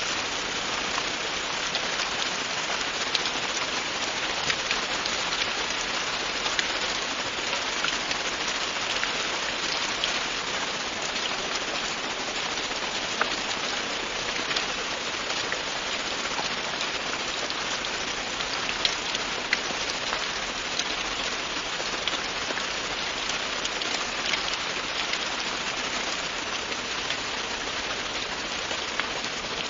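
Steady rain falling on a hard surface, an even hiss dotted with many sharp individual drop hits.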